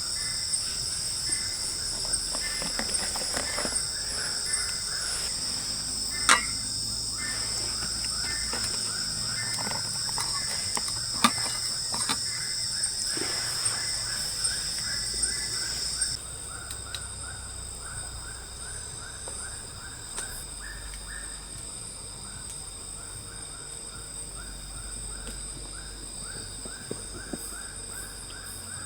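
Night forest insects: a steady high-pitched drone of cicadas and crickets, with a rapid run of short repeated chirps beneath it and a couple of sharp snaps. Just past halfway the high drone drops abruptly quieter.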